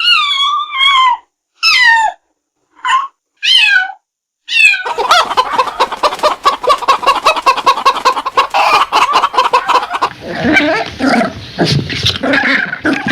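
A domestic cat gives about five short meows, each falling in pitch. From about five seconds in, chickens cluck rapidly and continuously.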